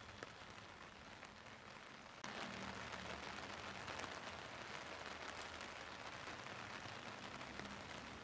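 Steady rain, an even hiss of falling drops with fine scattered patter, which turns suddenly louder about two seconds in.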